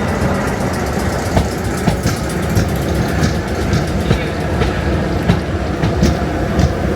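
Class 455 electric train running on the track: a steady rumble with frequent sharp clicks from the wheels and rails.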